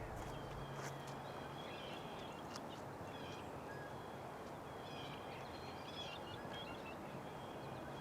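Steady outdoor background hiss with faint, scattered bird chirps. The low notes of a music track fade out about a second and a half in.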